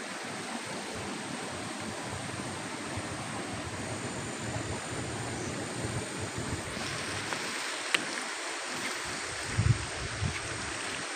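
Steady rushing of water and wind on the microphone during a boat ride, with a sharp click about eight seconds in and two low thumps near the end.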